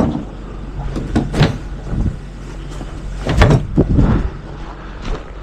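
A trash can banging against the garbage truck as it is emptied, its contents frozen to the bottom. There are two knocks about a second in and a louder cluster of bangs around three and a half seconds in, over the steady low hum of the truck's engine.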